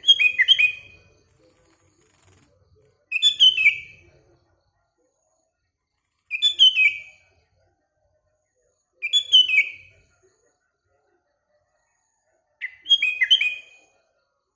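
Sooty-headed bulbul (kutilang) singing: a short, bright phrase of quick whistled notes, repeated five times about every three seconds.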